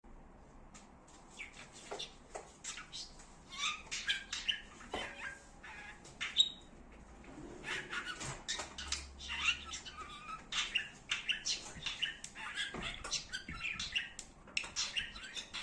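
Pet budgerigar chattering in rapid runs of chirps, warbles and squawks, mimicking speech in mumbled, unclear words.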